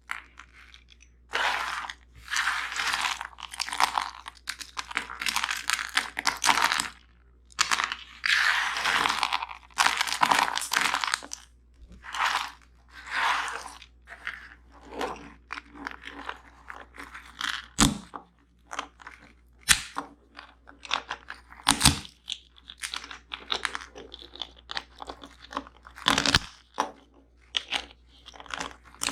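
Nuts and seeds crunching close to the microphone: long dense crunches for about the first ten seconds, then sparser short, sharp cracks and crackles.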